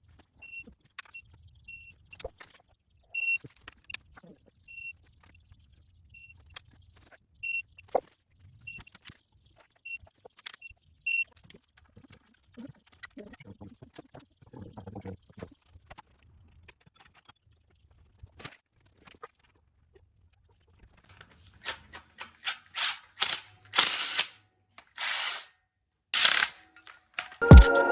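Craftsman digital torque wrench beeping in short, repeated high tones, with ratchet clicks, as LS cylinder head bolts are turned through their final angle step; the beeping stops about eleven seconds in. Several louder bursts of noise follow near the end, and music starts just as it ends.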